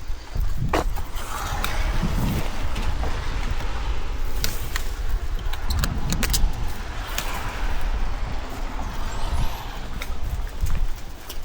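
Two cars passing on a wet road, their tyres hissing: the first about a second in, the second around seven seconds in. A low rumble runs underneath, with a few sharp clicks.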